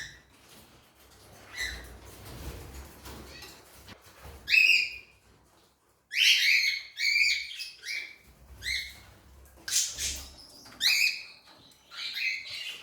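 Pet birds chirping in short, high calls, some single and some in quick runs, with a brief pause about midway.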